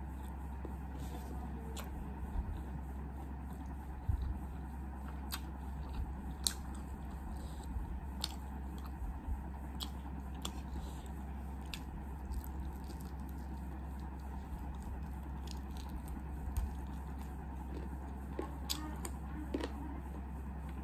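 Close-up chewing and biting into a roasted chicken leg, with scattered short sharp mouth clicks over a steady low hum.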